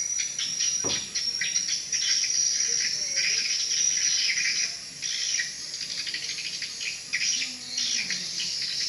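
Swiftlet calls: a dense, continuous chatter of rapid, high chirps and twitters, the kind of call sound played to lure swiftlets to a bird house. A single short knock sounds about a second in.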